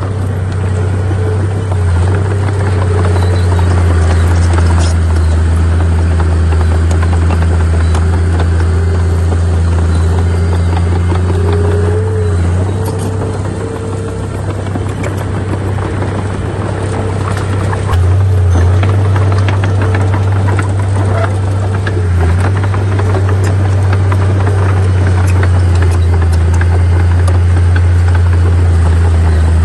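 Heavy diesel engine of an earthmoving machine running steadily, its low hum shifting a few times.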